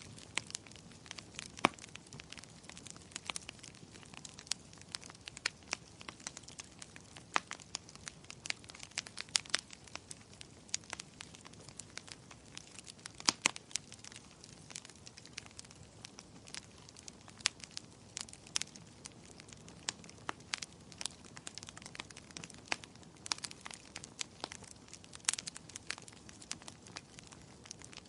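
Wood fire burning in a fireplace, crackling with irregular sharp pops over a low steady hiss.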